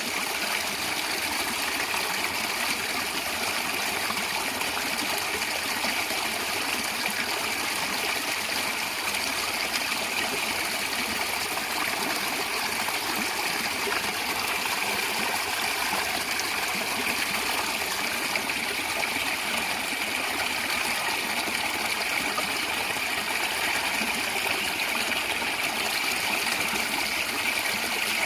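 Natural stream water running and gurgling steadily over stones, an even rushing with no pauses.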